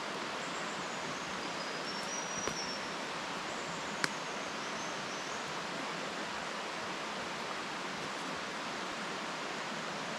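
Steady rush of flowing water in the rainforest, with a few faint high chirps and a single sharp tick about four seconds in.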